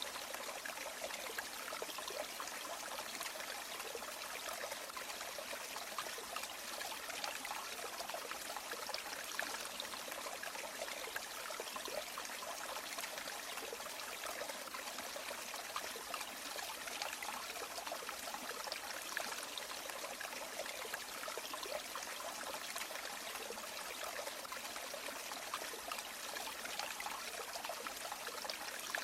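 River water flowing and trickling steadily, an even rushing hiss with no change.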